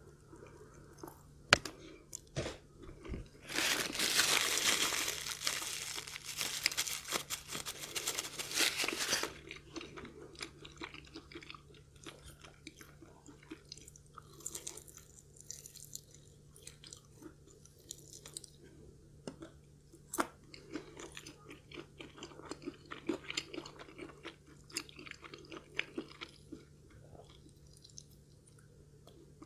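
Chewing and crunching of crispy fried chicken. A loud run of crunching lasts from about four to nine seconds in, then gives way to quieter, intermittent chewing.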